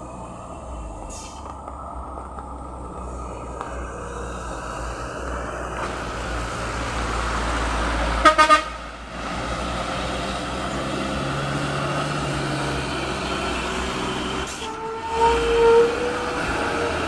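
Diesel truck engines running hard on a steep climb, growing louder, with a horn tooted three times in quick succession about eight seconds in and a longer horn note near the end.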